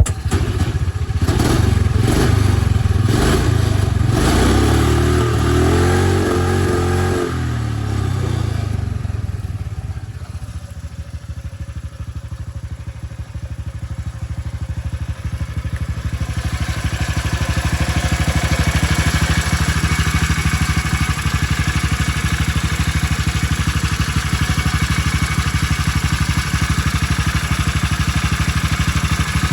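Small gasoline engine revving up and down, settling to a lower, quieter run about ten seconds in, then building back up and holding a steady, higher speed.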